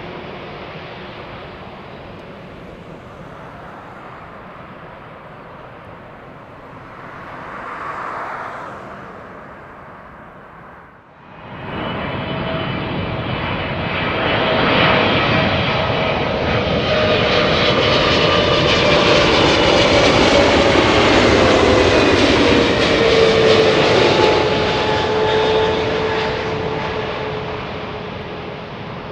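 Jet airliner passing close by, its engine noise and whine building to a loud peak and then fading, with the whining tones dropping slightly in pitch as it goes past. Before that, a quieter, more distant aircraft rumble cuts off abruptly about eleven seconds in.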